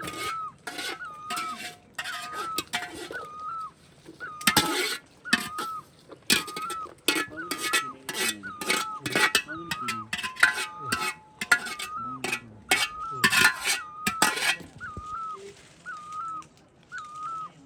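Metal dishes and utensils clattering and clinking, as if pots or plates are being handled or stirred, until about 14.5 s in. Through it and after it, a short high chirp repeats evenly, about every two-thirds of a second.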